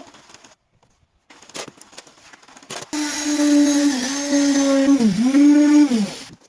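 Electric power tool motor starting about halfway through, running steadily with its pitch sagging twice as it takes load, then cutting out near the end. A few knocks before it starts.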